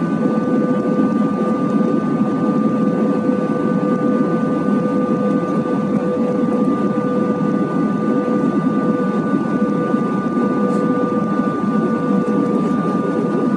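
Airbus A320 cabin noise in flight: a steady rush of engine and airflow noise with a few constant whining tones over it, unchanging throughout.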